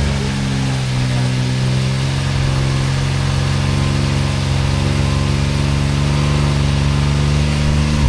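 Side-by-side UTV engine running at a steady speed, its pitch wavering slightly in the first second, then cutting off suddenly at the end.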